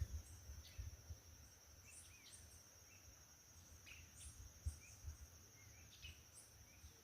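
Faint outdoor ambience: a steady high-pitched insect trill, with scattered short bird chirps and a few soft low thumps.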